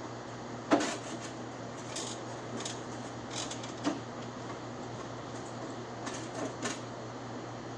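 Scattered sharp clicks and light knocks of hand tools and metal door hardware being worked on, the loudest about a second in, over a steady low hum.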